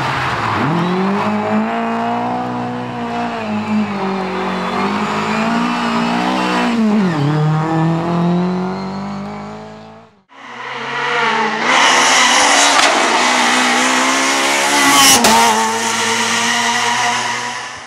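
Rally car engine at high revs under hard acceleration, pitch dipping briefly about two-thirds of the way through the first part as the driver lifts or shifts. It cuts off sharply after about ten seconds to another rally car at full throttle, with more hiss from the tyres.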